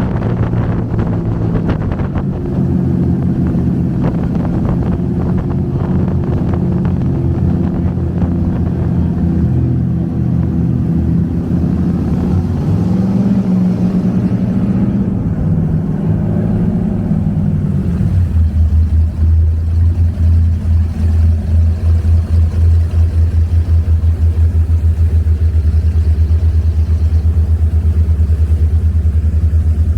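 Avanti 33's twin V8 engines running at speed, their note rising and falling, then throttled back about two-thirds of the way through to a low, evenly pulsing idle.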